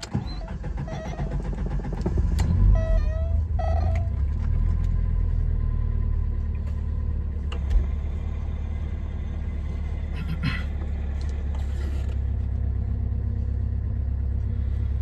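Alfa Romeo Spider's twin-cam four-cylinder engine starting from cold, catching right away and settling into a steady idle a little over 1,000 rpm, heard through an exhaust with the rear muffler deleted. There is a single sharp knock about eight seconds in.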